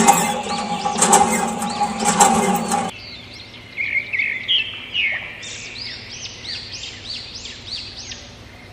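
A loud steady hum with clicks that cuts off suddenly about three seconds in, followed by a bird's quick series of arching chirps, several a second, fading toward the end.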